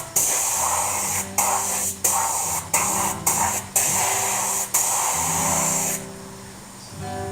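Aerosol spray-paint can hissing in about seven short bursts, on and off, that stop about six seconds in, with music playing underneath.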